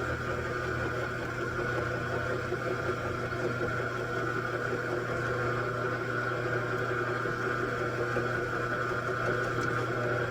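Machine tool running steadily in a machine shop, with a constant low hum and a steady high whine.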